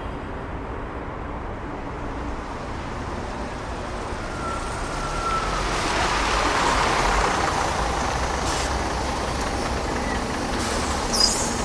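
Road traffic: the steady rumble of a large motor vehicle such as a truck or bus, swelling about six to seven seconds in as it draws closer and then easing off.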